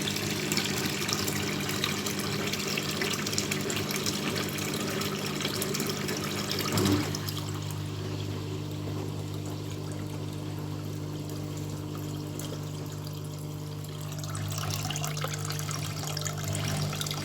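Washing machine drain pump humming steadily while water gushes out of it. The rush of water drops away about seven seconds in, leaving mostly the pump's hum.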